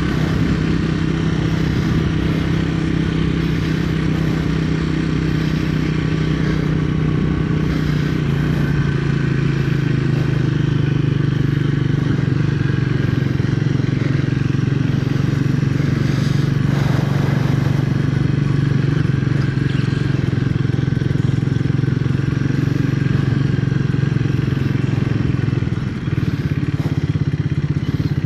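2025 Triumph Speed 400's single-cylinder thumper engine and exhaust running at a steady cruise under way. Its note drops a little in pitch about nine seconds in and dips briefly in loudness near the end.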